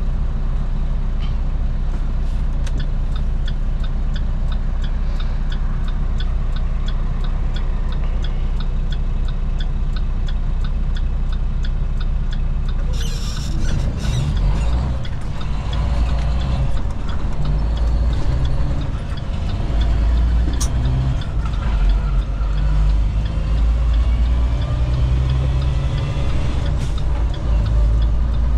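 Semi-truck diesel engine running in the cab with a steady low hum and a light, even ticking through the first half. About 13 seconds in, a short sharp hiss of air from the air brakes, then the engine rumbles louder and unevenly as the truck gets moving.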